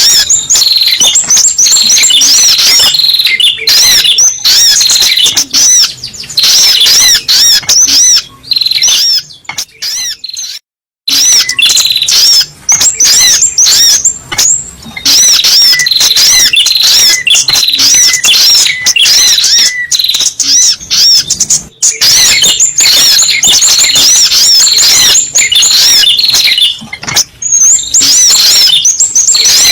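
Spiderhunter (sogok ontong) calls played as a bird-lure recording: a loud, rapid, unbroken string of high, arched chirping notes, with a brief break about ten seconds in.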